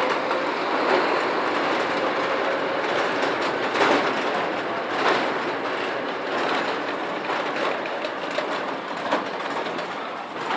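Heavy trucks passing close by on a highway: a steady rush of tyre and engine noise, with a few clattering knocks from the trailers.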